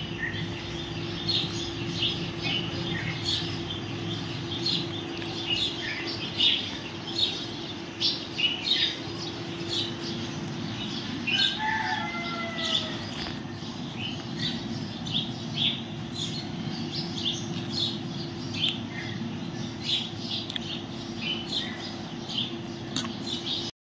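Birds chirping repeatedly over a steady low hum, with a few falling whistled notes a little before the middle.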